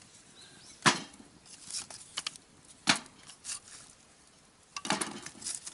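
Several sharp knocks and clatters: two loud single knocks about a second in and about three seconds in, with a quicker run of knocks near the end.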